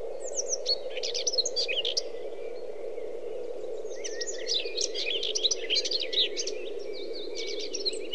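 Small birds chirping in quick, high twittering runs, in two spells, over a steady low hum.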